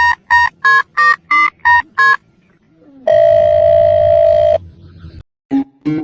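A run of seven short electronic beeps, evenly spaced about three per second, then a steady electronic tone held for about a second and a half.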